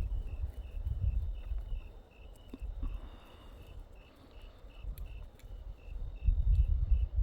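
A cricket chirping steadily, a little over two high chirps a second. Loud low rumbles at the start and again about six seconds in, with a few faint ticks between.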